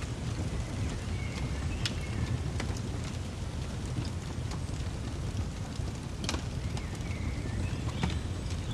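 Fireplace fire crackling, with scattered sharp pops over a steady low rumble. Faint bird chirps come in twice, about a second in and again later on.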